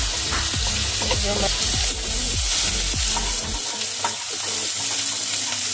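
Chopped garlic and green chillies sizzling in hot oil with cumin and carom seeds in a kadhai, stirred with a spatula that scrapes the pan.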